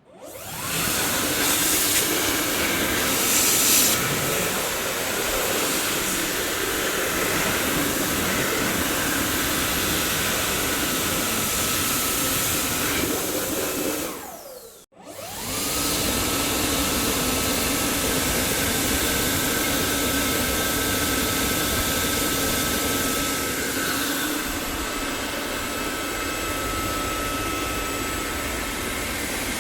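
Dyson vacuum cleaner motor starting up and running with a steady high whine over a loud rush of air. About halfway through it winds down in pitch and cuts out, then spins straight back up and runs steadily again.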